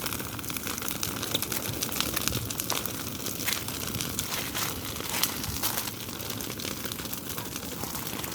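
Large bonfire of dry brush and branches burning, with a steady rush of flame and dense, irregular crackling and popping.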